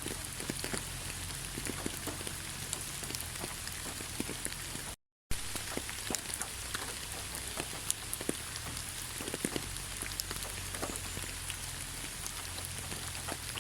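Steady rain, many small drops pattering irregularly on a surface, over a low steady rumble. The sound cuts out completely for about a third of a second about five seconds in.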